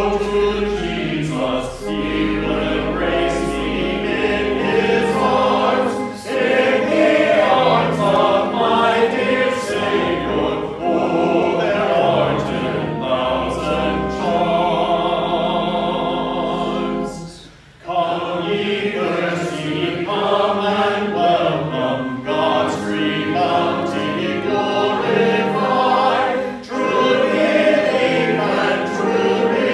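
A congregation singing a hymn in parts, with steady low held notes beneath the voices and a brief break between phrases about 17 seconds in.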